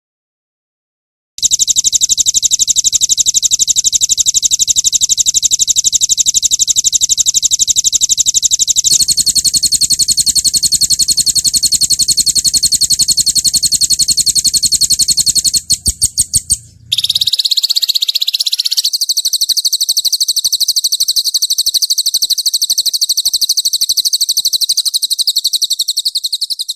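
Recorded songbird song used as a tutoring track: after a second of silence, a string of very fast, high-pitched rapid-fire trills, one trill phrase giving way to another several times, with a few separate notes and a sliding phrase in the middle.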